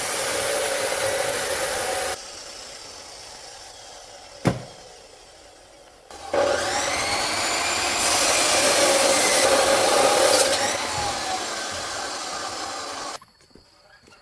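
A motor-driven tool running steadily, heard in several abruptly cut stretches, some quieter and some louder, with one sharp knock partway through.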